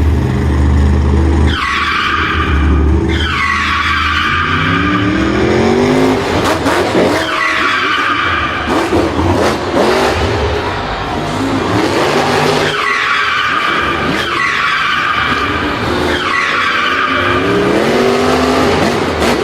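Racing vehicle engines revving over and over, the pitch climbing with each rev, mixed with repeated tyre screeches and skids.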